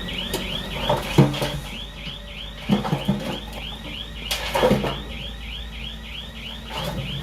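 Heavy machine's electronic reversing alarm chirping rapidly and evenly, about four chirps a second, over a diesel engine running, with a few louder knocks and engine surges about one, three and four and a half seconds in.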